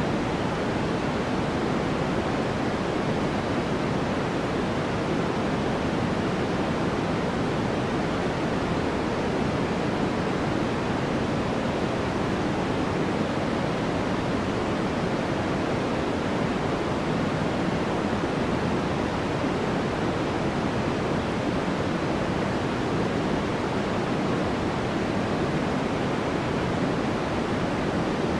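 Steady synthetic noise: a constant, even hiss weighted toward the lower and middle pitches, closer to pink noise than pure white noise, with no change or events.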